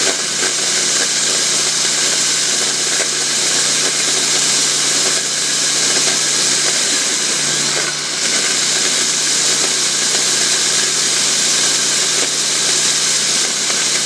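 Husqvarna DM 340 core drill running steadily while boring a 6-inch hole in concrete: a constant low hum under a loud, dense hiss, with a brief dip about eight seconds in.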